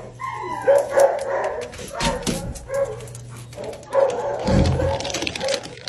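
A dog barking and yipping in short repeated calls during a play game.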